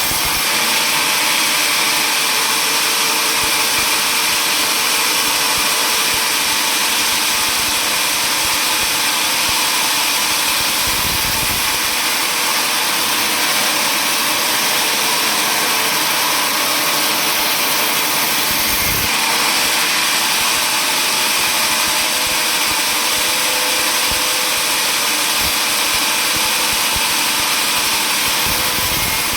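Sawmill saw machinery running steadily: a constant high hum over an even hiss, with no pauses or changes.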